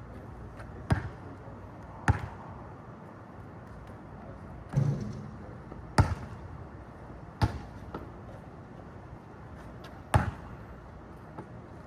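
A basketball bouncing on a court: six sharp, irregularly spaced bounces a second or more apart, the one about five seconds in duller and longer.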